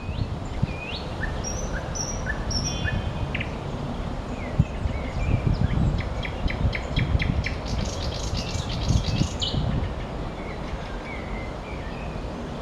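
Nightingale singing: short whistled notes and quick upward glides, then a fast run of hard, clicking notes in the middle, followed by softer notes. A steady low rumble of background noise runs underneath.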